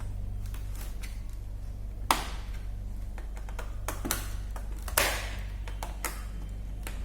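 Plastic clicks and snaps as a Dell Vostro 15 3546 laptop's keyboard is pried free of its latches, with two louder snaps about two and five seconds in and lighter clicks between. A steady low hum runs underneath.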